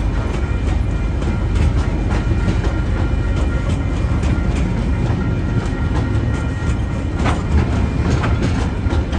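Loaded coal hopper wagons rolling past on a freight train: a steady low rumble with irregular clicks of the wheels over the rail joints.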